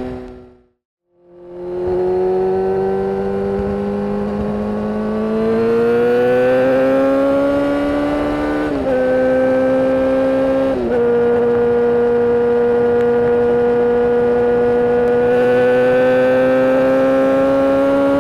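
Yamaha FZ6N's inline-four engine through a Two Brothers aftermarket exhaust, heard while riding. After a brief dropout about a second in, the revs climb steadily under acceleration, the pitch changes abruptly twice around the middle, then it runs at a steady pitch that rises a little near the end.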